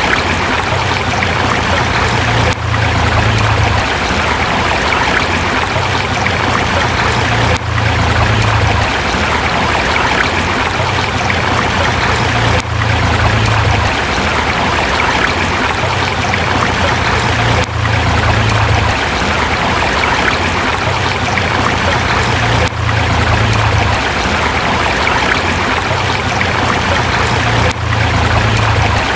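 Forest river flowing over rocks: a steady rush of water, with a brief dip in level about every five seconds.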